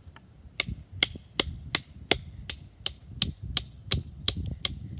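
Tomahawk handle striking the spine of a small fixed-blade knife again and again, batoning the blade down through a piece of wood. The sharp knocks come about three a second.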